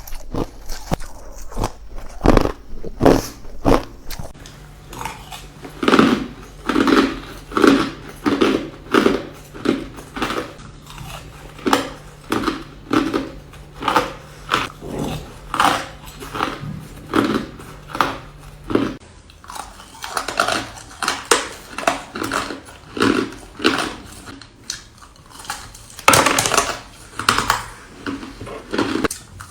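Ice being bitten and chewed close to the microphone: a long run of loud, crisp crunches, about two a second.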